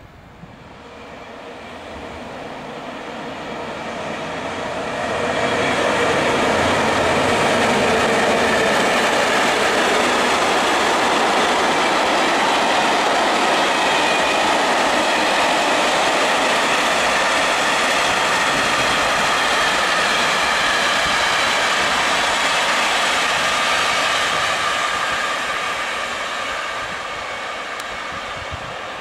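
A freight train of tank wagons, hauled by a 15D diesel locomotive, passing by. The noise of wheels on rails builds over the first few seconds, holds loud and steady, then fades near the end.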